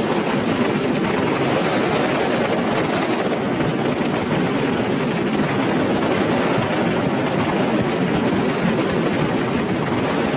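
Fireworks barrage going off continuously: many overlapping bangs and crackles merging into a steady, dense rumble.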